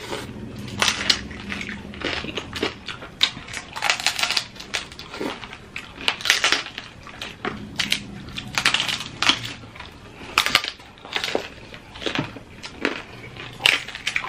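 People chewing and biting into crunchy food, a continual run of irregular crunches and crackles.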